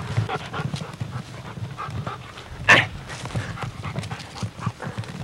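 A puppy panting close by, a quick run of breathy pulses, with one louder sharp burst of noise a little past halfway.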